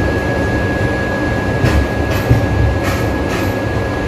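Passenger train running on the rails, heard from inside the coach: a steady rumble with a steady high whine, and three sharp clacks of wheels over rail joints in the second half.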